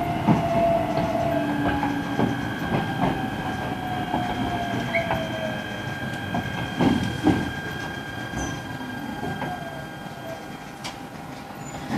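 E129-series electric train with its Toyo IGBT VVVF traction inverter whining in falling tones as the train brakes into a station. The wheels click over rail joints, and the sound grows quieter as it slows.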